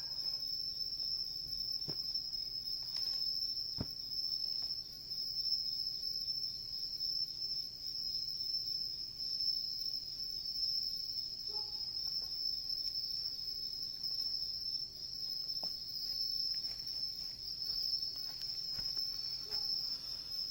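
Crickets chirping in a steady, continuous high-pitched trill, with a few faint pops from a wood campfire.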